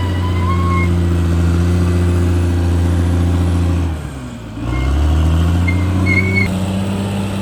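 Caterpillar D6R XL bulldozer's diesel engine running steadily. About four seconds in, its pitch and loudness dip briefly and then climb back.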